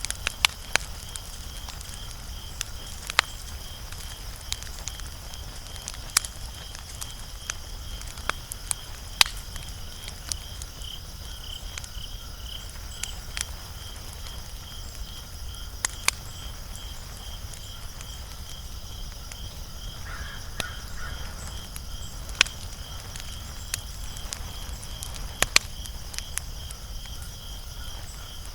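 Wood fire crackling, with sharp irregular pops over a low steady rumble. A high chirp repeats evenly about twice a second throughout.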